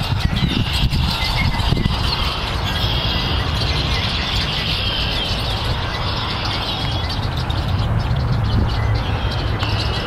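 Birds chirping in short, repeated high calls over a steady low rumble.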